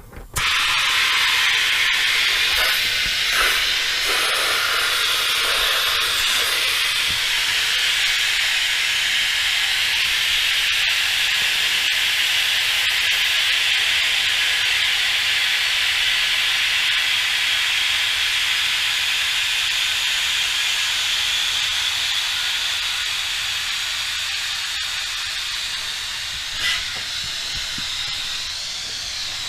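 Compressed air hissing steadily into a tractor tire's inner tube through its repaired valve stem during inflation; it starts abruptly and eases off a little near the end.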